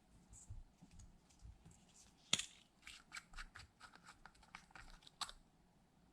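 Slime being worked by hand, giving a faint run of small sticky clicks and crackles, with two sharper pops about two seconds in and near the end.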